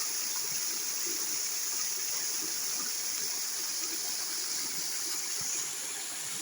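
Steady rush of running water from a waterfall-fed stream, an unbroken hiss.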